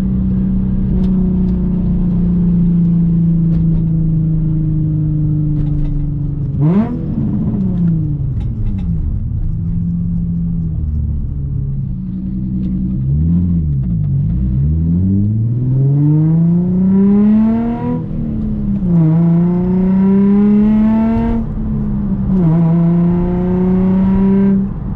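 Nissan 350Z's 3.5-litre V6 heard through resonated test pipes and a muffler delete. It holds a steady note, gives a quick blip of revs about seven seconds in, then pulls with revs climbing and dropping sharply three times, as under acceleration through upshifts.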